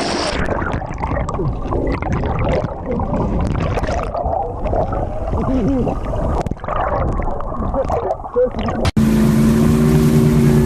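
Muffled, dull churning of water with garbled voice-like wavering sounds. About nine seconds in it cuts abruptly to a boat engine running at a steady hum.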